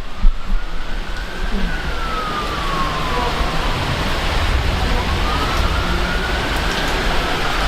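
Heavy rain pouring down, a steady loud hiss. Through it an emergency vehicle's siren wails, falling slowly in pitch early on and rising again in the second half.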